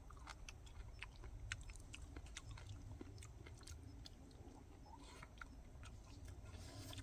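Quiet, close eating sounds: a person chewing, with small irregular mouth clicks and smacks over a faint low hum.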